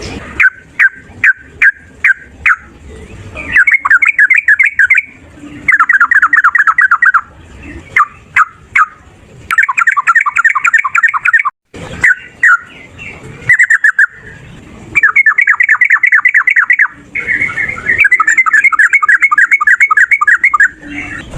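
Yellow-vented bulbul (trucukan) singing its fast, bubbling chatter: bouts of rapidly repeated notes, each a second or two long, alternating with single sharp notes and short pauses.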